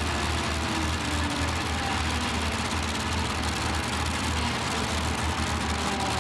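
Heavy engine of a competition pulling tractor running steadily at a low, even speed, with no rev-up.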